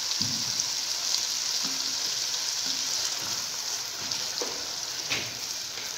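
Masala paste of onion, garlic, ginger, tomato and green chilli sizzling steadily in hot ghee in a kadhai while it is stirred and fried (bhuna), with two brief spatula knocks near the end.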